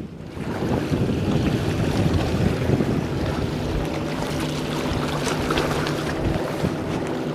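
Strong wind buffeting the microphone over the wash of sea surf, with a low steady hum setting in about three seconds in.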